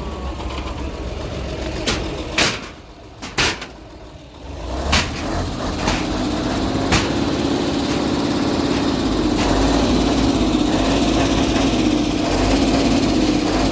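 A heavy demolition machine's engine running, with several sharp bangs of impacts in the first seven seconds. The engine then grows louder and works steadily through the rest.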